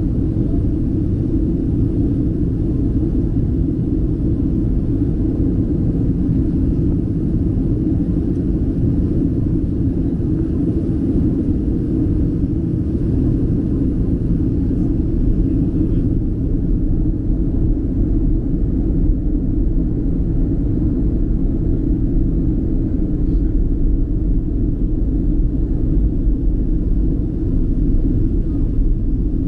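Boeing 737 airliner cabin noise in flight: a steady, low rumble of engines and airflow around the fuselage.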